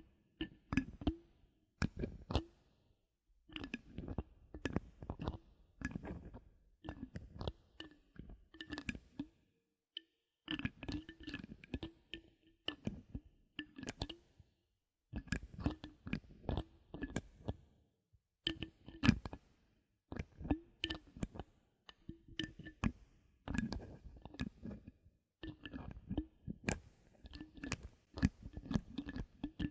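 Bottle caps handled close to the microphone: clusters of clicks and crackles in runs of a second or two, with short pauses between.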